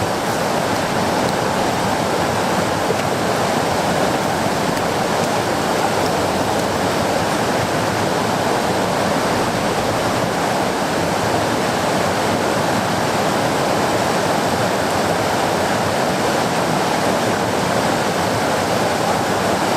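Whitewater rapids on a river rushing steadily, a loud, even roar of water over rock.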